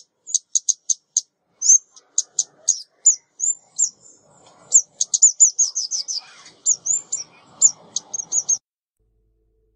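Recorded calls of a female ốc mít bird, used as a trapping lure: a rapid string of short, very high chips with a quick trill just after the middle. It cuts off suddenly about 8.6 seconds in.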